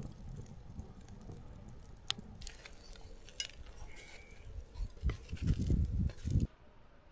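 Camp cookware and utensils clinking a few times over a hiss that stops abruptly about six and a half seconds in, with dull handling thuds near the end.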